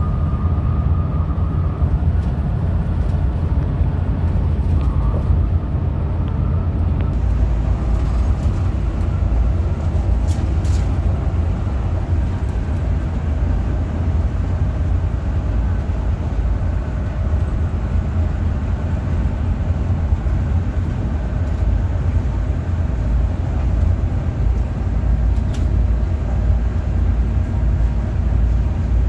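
Hino RM 280 coach on the move: steady low rumble of its diesel engine and road noise, unchanging throughout.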